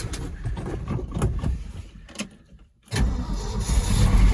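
Scattered clicks and knocks, then about three seconds in the 1971 Ford F600's engine is cranked over by the starter with a sudden, steady low churn, turning over so the mechanical fuel pump can draw fuel from a jug.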